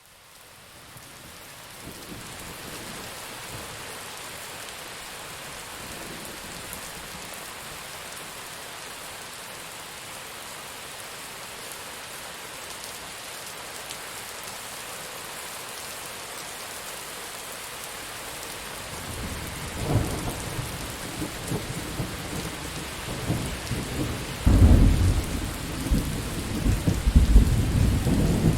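Steady heavy rain that fades in over the first couple of seconds. Thunder starts rumbling about two-thirds of the way through and gets louder in repeated surges near the end.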